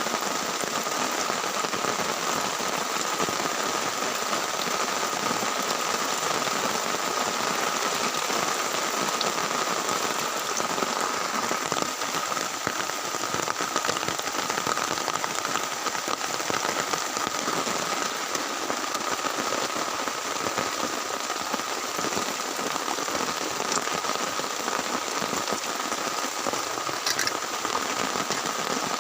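Heavy rain falling steadily and without a break, a dense even patter of drops.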